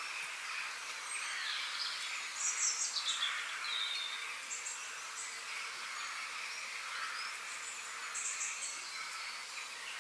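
Outdoor nature ambience: a steady high hiss of background noise, with birds calling over it in short high chirps, the loudest run of rapid chirps a few seconds in and another near the end.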